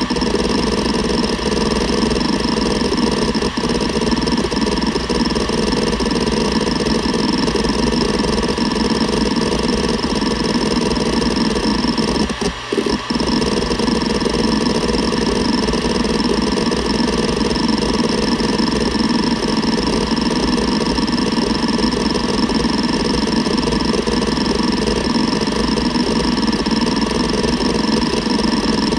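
Seagate Barracuda ES.2 ST31000340NS hard drive running, its 7200 rpm spindle humming steadily under a dense, continuous chatter of head-actuator seeks. The sound breaks off briefly about twelve and a half seconds in.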